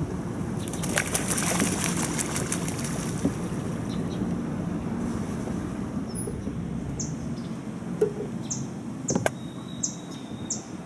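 A bird takes off with a quick burst of wing flaps about a second in, then from about the middle on a small bird gives short, high, falling chirps, roughly one to two a second, over a steady low rumble.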